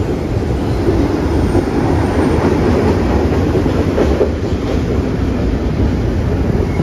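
Double-stack intermodal container freight train rolling past, a steady rumble of its cars and steel wheels on the rails.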